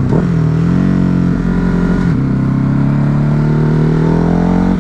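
Ducati Hypermotard's V-twin engine running as the bike is ridden. Its pitch dips and picks back up right at the start, holds steady, then rises slowly near the end as it gathers speed.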